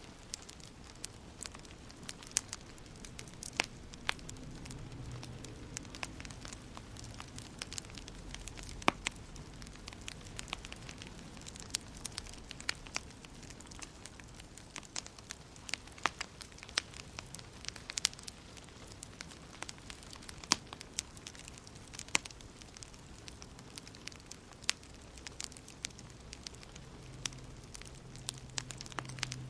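Wood fire in a fireplace crackling, with irregular sharp pops and snaps over a soft steady hiss and a low rumble of the flames.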